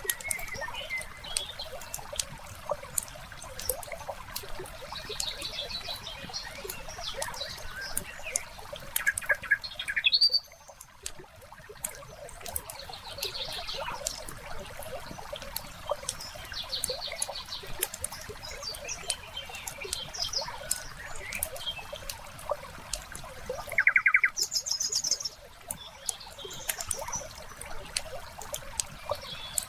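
Wood fire crackling with frequent small pops, while songbirds chirp and trill at intervals. Two short, louder bird trills come about ten seconds in and again near twenty-four seconds.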